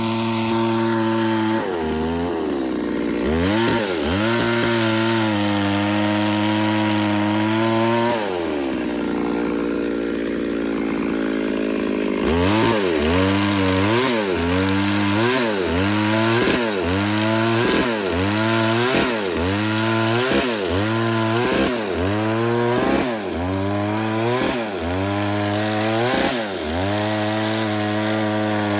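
Two-stroke chainsaw running at high revs and cutting wood, its pitch dipping and recovering as the chain bites in. About a third of the way in the engine note sags for a few seconds, then from just before halfway it bogs and revs back up about once a second in a steady rhythm.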